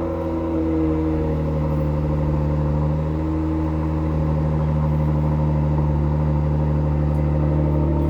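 Kia Stinger GT's twin-turbo V6 idling steadily just after a cold remote start, heard through a resonator-deleted dual exhaust.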